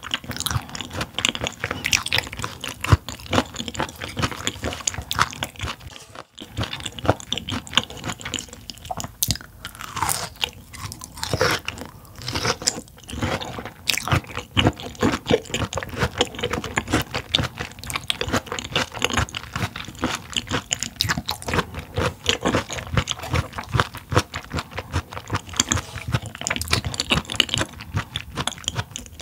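Raw mullet stomach (mullet 'bam') in sesame oil chewed close to the microphone: a dense run of crunching, biting clicks from its firm, chewy texture, with a brief break about six seconds in.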